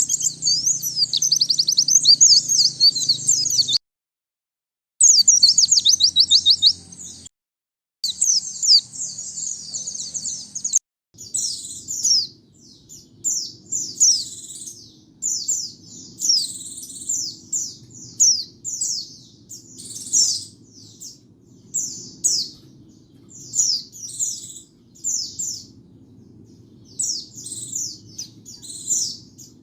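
White-eye (pleci) singing: a fast, high twittering song in three stretches, each ending in an abrupt cut to silence. From about eleven seconds in it turns to short, high chirping phrases repeated roughly once a second, over a faint low hum.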